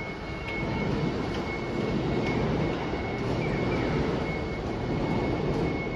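Diesel engine of a city bus running with a steady rumble, alongside a faint steady high-pitched tone.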